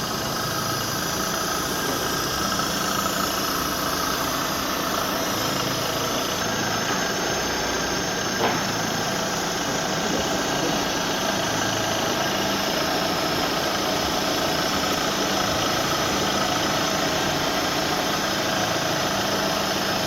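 Honda ZC 1.6-litre DOHC four-cylinder engine, freshly swapped in, idling steadily while its ignition timing is checked, with a faint steady whine over the engine note.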